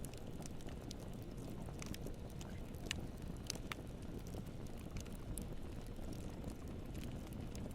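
Campfire burning and crackling, with scattered sharp pops and snaps, a few louder ones in the middle, over a steady low rumble.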